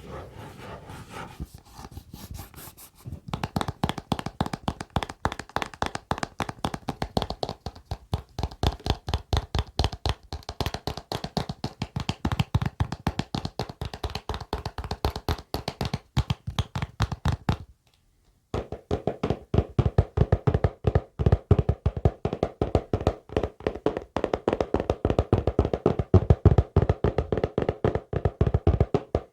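Rapid ASMR tapping by hand, several taps a second, starting about three seconds in after a quieter, softer stretch. It breaks off for under a second a little past halfway, then resumes.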